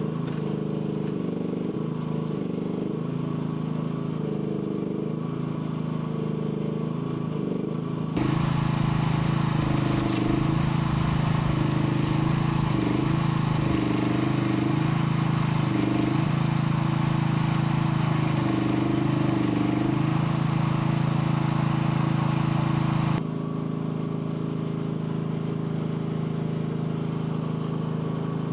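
Mini excavator engine running steadily. About eight seconds in it gets louder, and for some fifteen seconds its pitch dips briefly again and again, then it settles back to the quieter level near the end.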